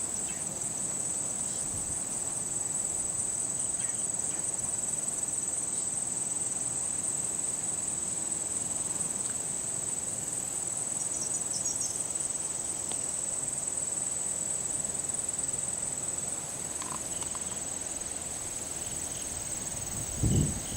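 Insect chorus of crickets or katydids, a steady high trilling over a low, even rush of background noise, with a brief low thump near the end.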